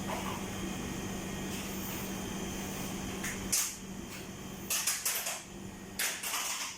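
Short scrapes and knocks of a spatula against a metal cake pan while levelling batter, in several quick bursts over the last three seconds. Under them a steady background hum cuts off suddenly about three and a half seconds in.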